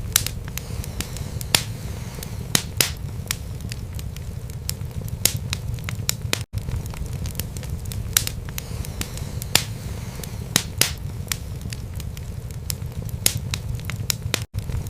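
Wood fire burning in a fireplace: a steady low rumble of flames with irregular sharp crackles and pops from the burning wood. The sound cuts out for an instant twice, about six and a half seconds in and near the end.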